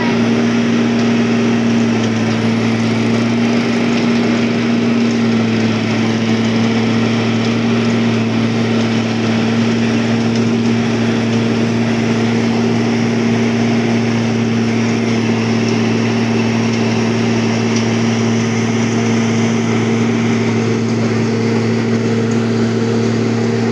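Engine of road-repair machinery running steadily at a constant speed, a loud, even drone that does not change pitch.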